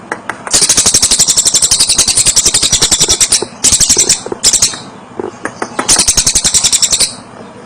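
A tengek cililin bird giving a rapid, high, rattling chatter of sharp notes. It comes in several bouts: a long one of about three seconds, then a few short bursts, then another of about a second near the end.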